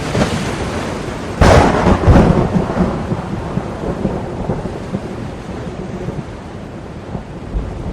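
Thunderclap: a sharp crack about a second and a half in and a second crack just after, then a rumble that slowly dies away. Under it runs a steady wash of sea surf.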